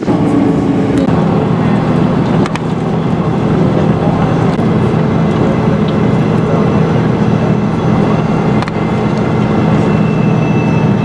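Bus engine running steadily, a loud, even low hum throughout.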